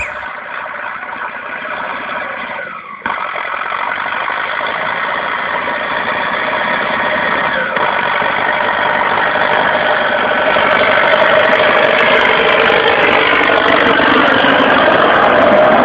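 MTZ-82 tractor's turbocharged diesel engine running steadily while ploughing. There is a sudden break about three seconds in, after which the engine grows slowly louder.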